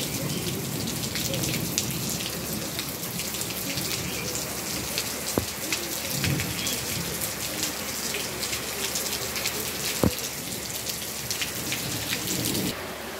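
Heavy rain pouring down: a steady dense patter of drops, with two sharp knocks about five and ten seconds in.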